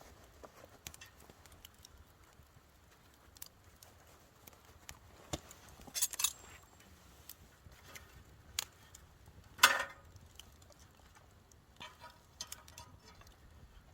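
Campfire of firewood crackling: irregular sharp pops and snaps, a small cluster about six seconds in and the loudest pop near ten seconds.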